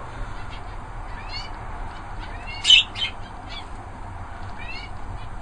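Canaries chirping: a handful of short, scattered chirps, the loudest about two and a half seconds in, over a steady low background hiss.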